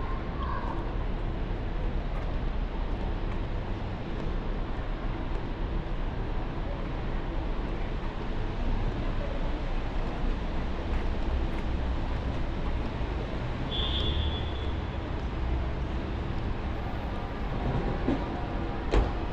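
Steady city street noise, mostly traffic, on a rainy day. About fourteen seconds in a short high tone sounds, and near the end there is one sharp click.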